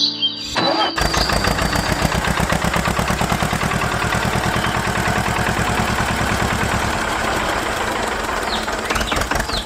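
Engine running with rapid, even pulses, starting about a second in and cutting off suddenly at the end.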